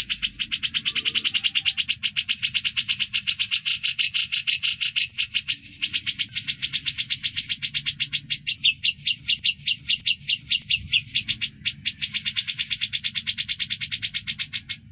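A songbird's rapid, continuous chattering trill of evenly repeated high notes, about ten a second, with a short break about three quarters of the way through.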